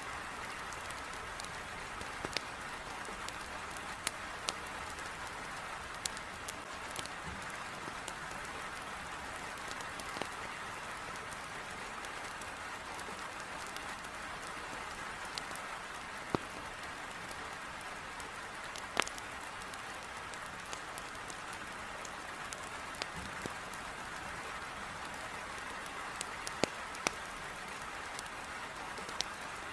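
Heavy rain pouring steadily against a window, with a wood fire in a fireplace crackling over it in scattered sharp pops at irregular intervals.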